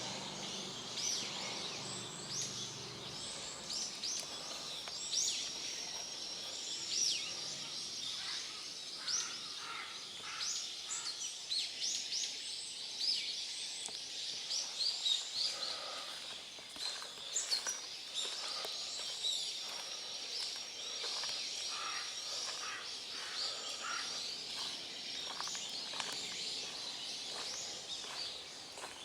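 Small wild birds chirping and calling, many short quick chirps overlapping, with a thin steady high tone running through long stretches of it.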